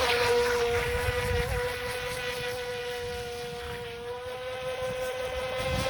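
Haiboxing Surge X03 RC speedboat's electric motor whining at a steady high pitch as the boat runs across the water. It grows a little fainter midway and louder again near the end, with wind rumbling on the microphone.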